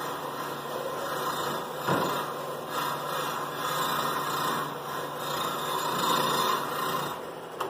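Wire brush wheel spinning in a drill press, scouring the galvanized coating off a steel pipe: a steady motor hum under a harsh scratching noise. It stops near the end.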